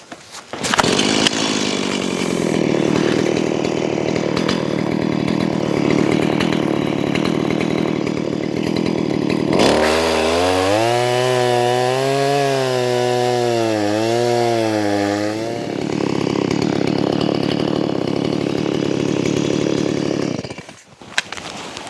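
Two-stroke chainsaw running at high revs, sawing a log. For about six seconds in the middle its engine note drops and wavers, then it returns to a steady pitch. It stops about a second before the end.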